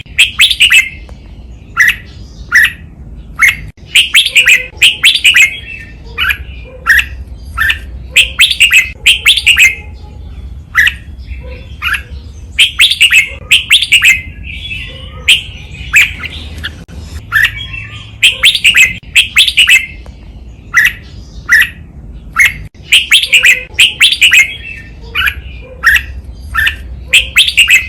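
Red-whiskered bulbul singing: short bursts of quick, chirpy whistled notes, repeated as a song phrase about every four to five seconds, the doubled-phrase song used to train caged bulbuls.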